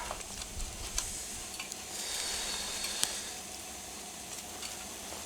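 Food sizzling over a campfire, a steady hiss with a few light clicks that grows brighter for a second or so midway.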